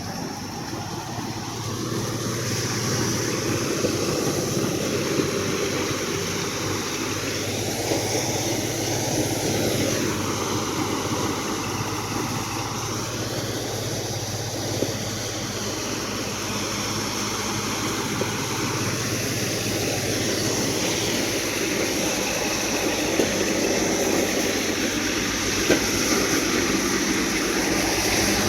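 Kubota 4501 tractor's diesel engine running steadily, its pitch rising and falling a couple of times as the revs change.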